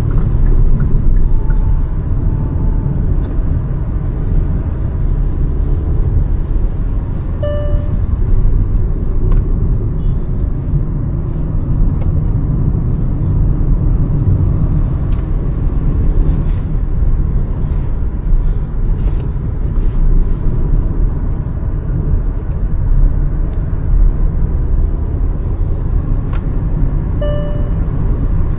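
Hyundai Verna 1.5-litre turbo-petrol car driving, a steady low engine and road rumble. Brief high beeps sound about seven seconds in and again near the end.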